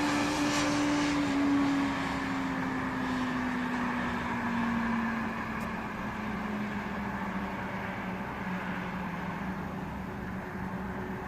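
A passing engine drone: one steady tone that slowly falls in pitch as it fades away, over a background hiss.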